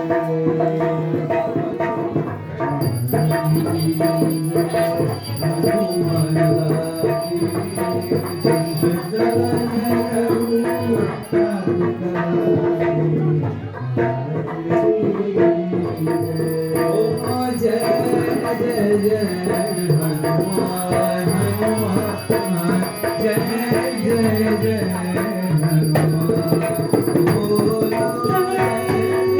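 Arti, a Hindu devotional hymn, sung with hand percussion rattling and jingling in a steady rhythm.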